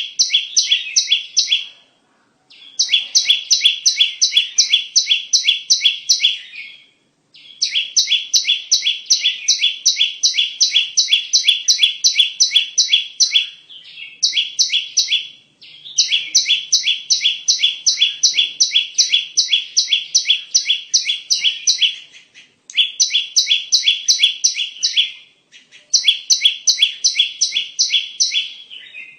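Bar-winged prinia (ciblek) calls played as a bird-trapping lure: a fast series of identical high chirps, about four a second, repeated in runs of a few seconds with short breaks between.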